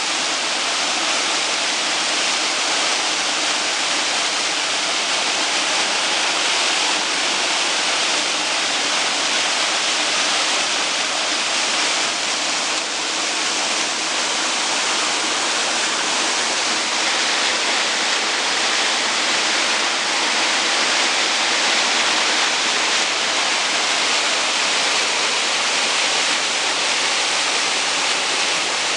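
Waterfall: a steady, unbroken rush of falling water, its hiss strongest in the upper range.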